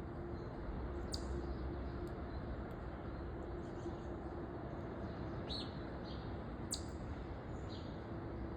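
Backyard birds chirping: a handful of short, high chirps a few seconds apart, over a steady low background rumble with a faint hum.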